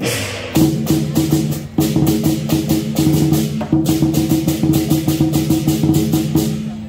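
Lion dance drum, cymbals and gong played live in a fast, even beat, the drum and gong ringing under the cymbal strokes; the playing stops near the end.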